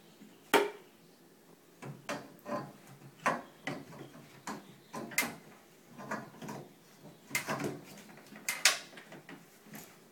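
Irregular clacks and knocks of tools and pipe parts being handled, about two a second, with the loudest strikes near the start and near the end.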